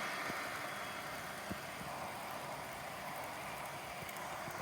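Electric fans running in the room: a steady, even hiss with a few faint clicks.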